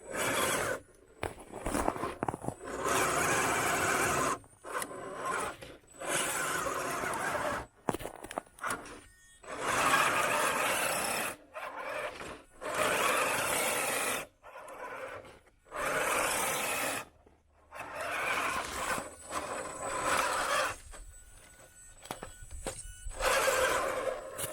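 Radio-controlled truck running in short bursts of throttle, starting and stopping every second or two, with scraping and squealing from the drivetrain and tyres on the trail.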